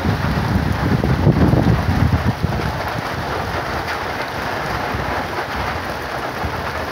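Heavy rain pouring steadily in gusty wind, with low wind rumble buffeting the microphone for about the first two seconds before the sound settles into an even downpour.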